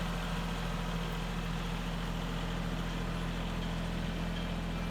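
Tractor engine running steadily at low revs, with no change in pitch.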